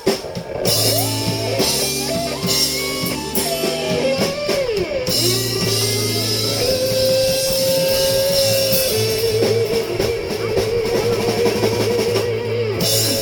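Live blues-rock band playing the instrumental close of a song: a lead guitar line with bent notes over bass and drum kit, ending on a long wavering note. The band stops together just before the end.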